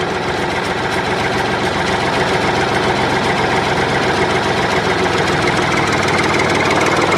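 Small engine running steadily at idle with a fast, even pulse, just after being started.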